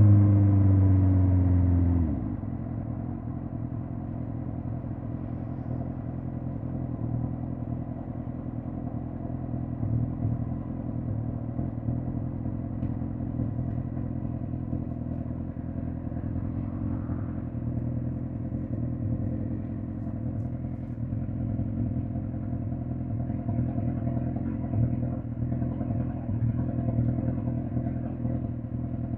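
2005 Suzuki GSX-R1000 K5's inline-four engine with its revs falling off after the throttle closes. About two seconds in it drops abruptly to steady running at low revs.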